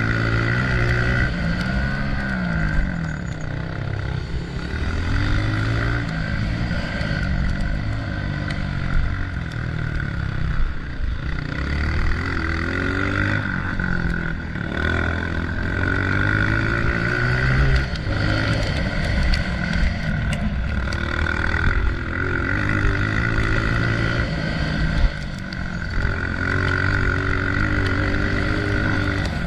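Honda CRF125F single-cylinder four-stroke dirt bike engine revving up and down again and again under riding load, its pitch climbing and dropping every couple of seconds.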